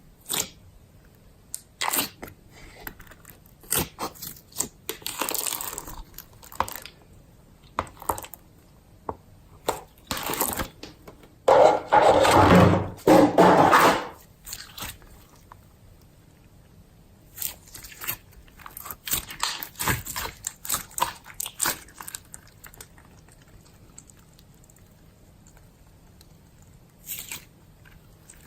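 Hands squishing and kneading slime, with irregular crackling pops and squelches between quiet pauses. A longer, louder run of squishing comes about halfway through.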